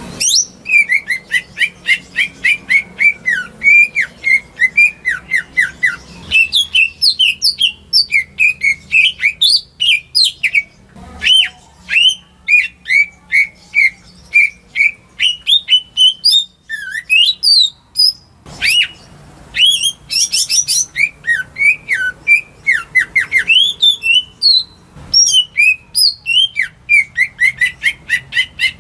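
Cucak ijo, a leafbird, singing a long, rapid run of quick chirps and whistled notes, with a few short breaks.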